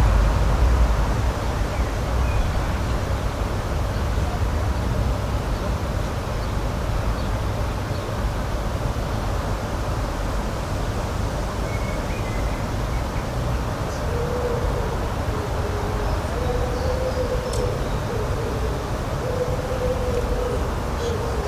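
Steady outdoor rushing noise, deepest in the low end, with a few faint high chirps such as small birds give. In the second half a faint wavering hum comes and goes.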